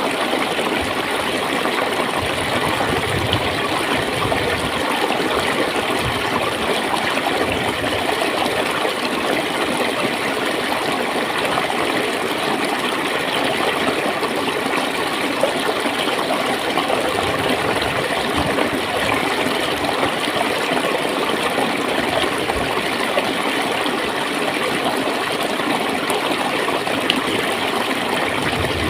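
Clear water flowing and gurgling in a steady, continuous rush, with small splashes throughout.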